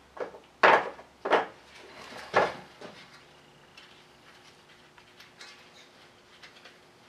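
A wrench and metal parts being handled in the engine bay: four sharp clanks and knocks in the first two and a half seconds, then only light, scattered ticks.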